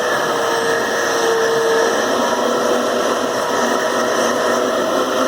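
Vacuum cleaner running steadily as it is used on a dog's coat, its motor whine wavering a little in pitch.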